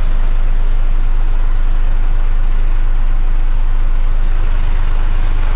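Heavy rigid truck's diesel engine running steadily, a constant low drone.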